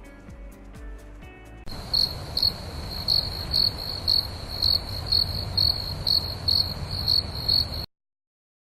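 Crickets chirping steadily, a high chirp about twice a second over a low rumbling background, starting abruptly after a brief bit of music and cutting off suddenly near the end.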